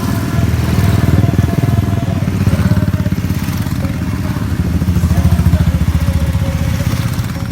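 Motorcycle engines running, a loud low throb that swells and eases.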